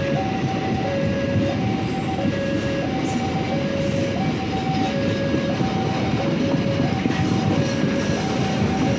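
Executive-class passenger coaches rolling past with a steady rumble of wheels on the rails. Over it a level-crossing warning alarm sounds its two-tone signal, the pitch switching up and down about every two-thirds of a second: the crossing is closed while the train goes through.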